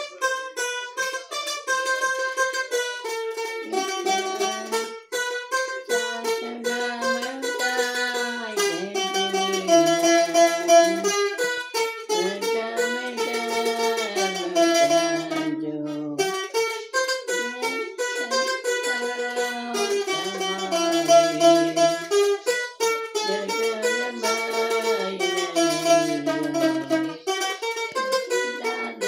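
A plucked string instrument played solo, picking a melody over lower notes.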